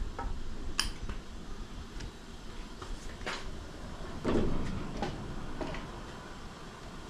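Scattered light metal clinks and knocks of parts and hand tools being handled, with one heavier thump about four seconds in.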